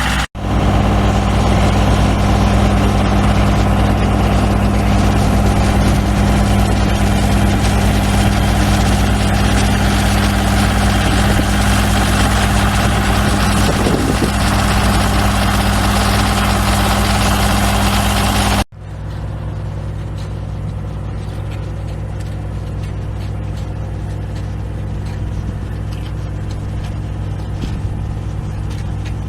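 An engine running steadily at idle. It breaks off abruptly twice, just after the start and about 19 seconds in, and after the second break it goes on noticeably quieter.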